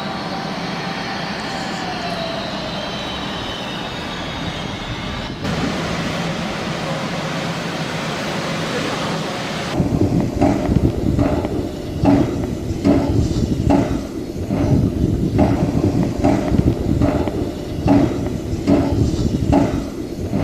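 Steam locomotive train running. From about ten seconds in come regular exhaust beats, roughly one and a half a second, as the engine works along the line.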